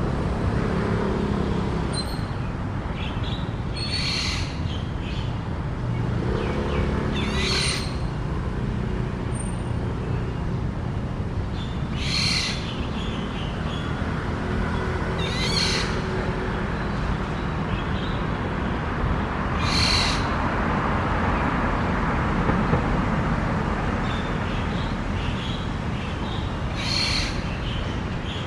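Black-naped oriole giving about six short, harsh calls several seconds apart, with faint chirps from other birds, over a steady low background rumble.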